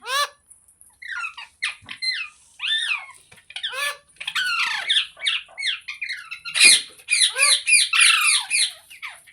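Green parrot squawking: a rapid series of short, shrill calls that bend up and down in pitch, scattered at first and almost continuous in the second half.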